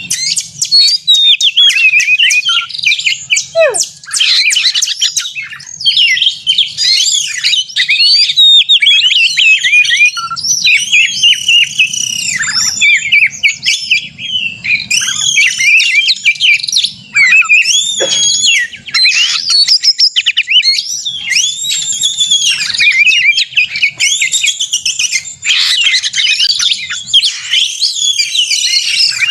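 Oriental magpie-robin singing a loud, unbroken stream of rapid varied whistles, chirps and trills: the aggressive 'narung' fighting song of a male in full song.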